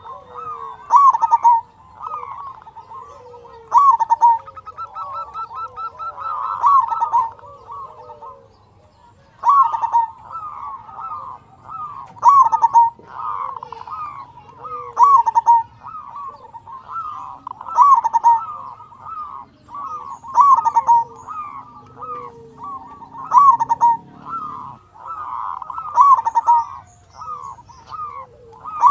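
Zebra dove (perkutut) cooing: a repeated song of rapid, staccato coos, each phrase coming every two to three seconds, with a short pause about eight seconds in.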